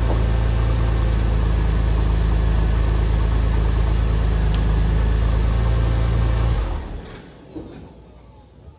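2004 Porsche 911 Carrera's flat-six engine idling steadily, then switched off about two-thirds of the way through, its sound dying away within half a second.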